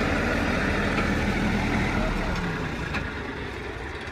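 Heavy diesel engine running steadily, its sound dropping away about two seconds in.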